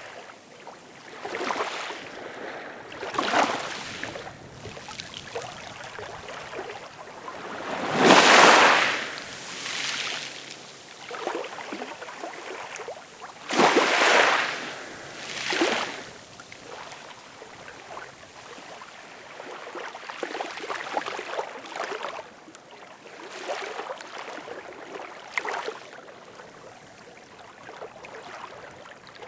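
Ocean waves breaking and washing in, a steady hiss with surges every few seconds; the two biggest waves come about eight and fourteen seconds in.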